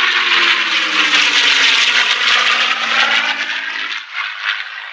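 Propeller aircraft flying a low pass past the crowd, their engine note sliding down in pitch as they go by. The sound drops away sharply about four seconds in.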